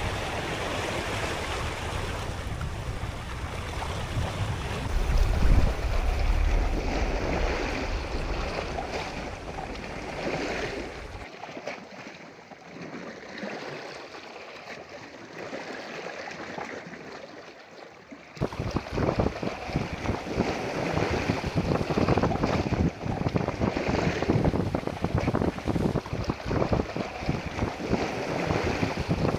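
Wind and sea waves at open sea, with wind buffeting the microphone in heavy low rumbles. The sound drops abruptly quieter about a third of the way through, then comes back louder and choppier past the middle.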